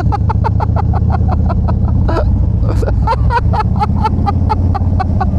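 Motorcycle engine running at low speed: a steady low rumble with a rapid, even train of sharp pulses, about six a second, that break off briefly about two seconds in.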